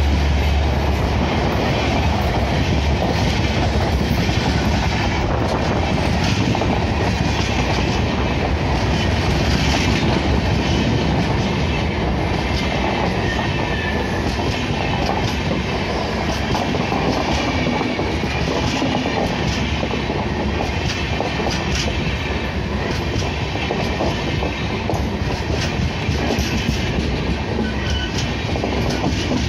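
Passenger coaches of an express train rolling past at speed: a steady, loud rumble of steel wheels on rails with clickety-clack over the rail joints. The electric locomotive's low hum dies away about a second in.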